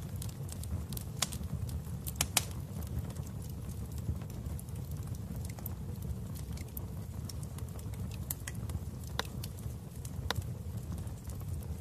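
Wood fire in a fireplace crackling: a steady low rumble of flames with scattered sharp pops and snaps, the loudest a little over two seconds in.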